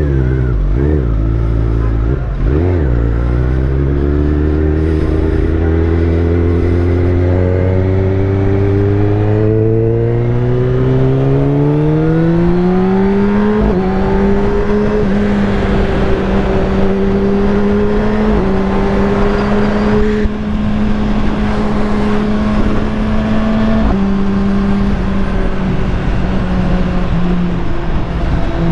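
Kawasaki Ninja ZX-10R's inline-four engine through a full Akrapovic titanium exhaust, riding in traffic. A few short blips of throttle give way to a long climb in pitch over about ten seconds as the bike accelerates. It then holds a steady note with small shifts in pitch.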